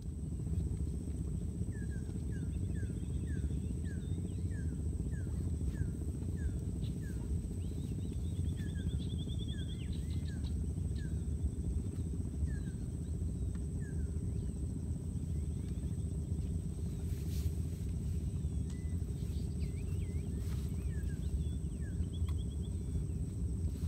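Birds calling over a steady low rumble: a bird repeats short falling chirps about twice a second for several seconds, then again near the end, with a few higher trills in between.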